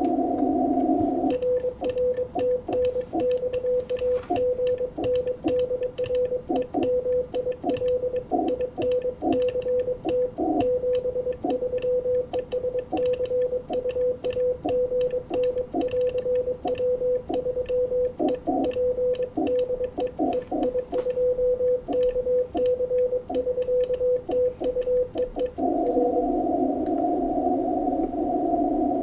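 Morse code (CW) on an amateur radio transceiver: a keyed tone of about 500 Hz sending for roughly 24 seconds, with the band's hiss through the narrow CW filter heard before and after the sending.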